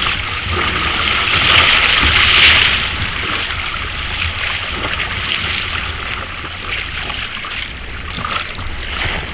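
Sea water rushing and splashing around a moving kayak, swelling louder about two seconds in, with wind buffeting the microphone.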